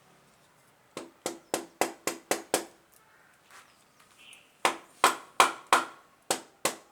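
Repeated hammer taps during hand assembly of a Honda Chaly engine, about three a second in two runs: six strikes starting about a second in, then, after a short pause, seven more from about four and a half seconds.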